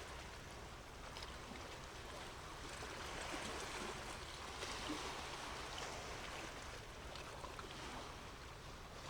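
Steady wash of moving water, with small splashes ticking through it and a low rumble underneath.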